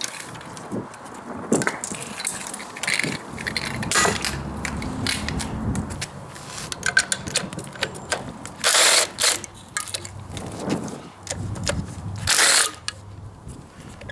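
Hand tools working on bolts of a Ford 5.0 V8 during teardown of its intake: a ratchet clicking and metal parts clinking in irregular knocks. There are two louder bursts of noise, each under a second, near the middle and near the end.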